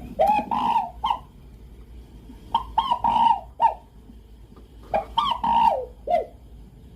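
Domestic fowl calling: three separate pitched, bending calls about two and a half seconds apart.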